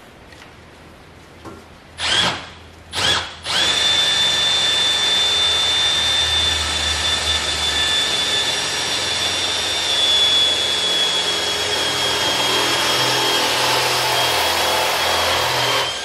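Electric drill boring into the sheet-steel bench top: two short blips of the trigger, then running steadily with a high whine for about twelve seconds, the pitch sagging slightly under load.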